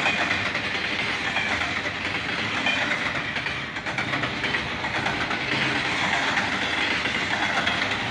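Double-stack intermodal freight train's well cars rolling past, with steel wheels rumbling and clattering steadily on the rails.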